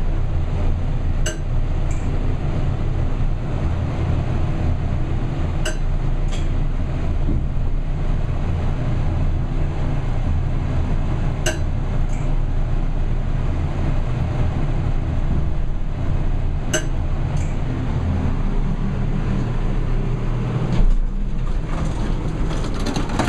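Gemco elevator car travelling with a steady low rumble, its floor position indicator making a sharp double click about every five seconds as the car passes each floor, four times in all. A bump near the end as the car comes to a stop.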